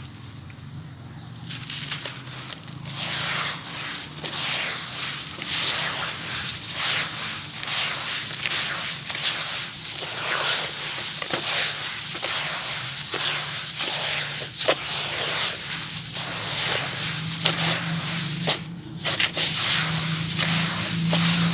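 A wet, black grainy bowl crumbling with dense, crunchy, gritty crackling. It starts quietly and grows into a steady run of small cracks about a second and a half in.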